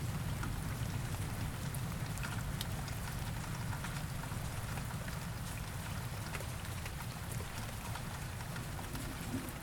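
Steady rain: an even hiss of falling drops with scattered sharper drop ticks, over a low, steady rumble.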